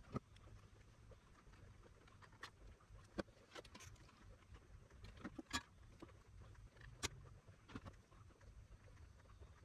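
Faint, scattered sharp clicks and light taps of small parts and tools being handled on a workbench, about eight or nine in all, over a low steady hum.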